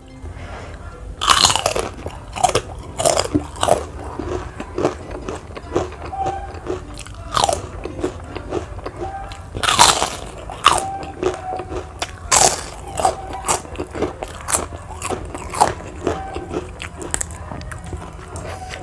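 Close-up biting and chewing of crisp kerupuk crackers: three loud crunching bites, about a second in, about halfway through and about two-thirds through, with rapid crunchy chewing between them.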